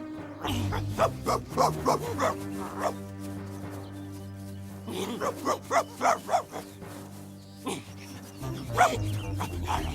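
A dog barking in short runs of sharp barks over steady background music, with a single loud bark near the end.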